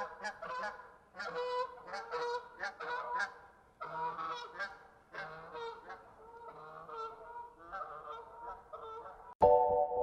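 Geese honking, a rapid string of repeated calls from several birds. Near the end, music with a bell-like chime cuts in suddenly and is louder than the geese.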